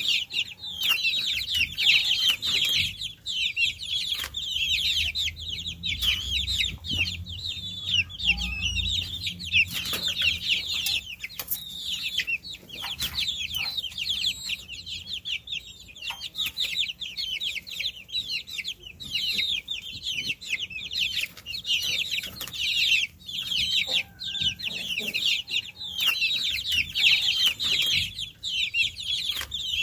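A brood of baby chicks peeping continuously: many short, high, downward-falling chirps overlapping one another.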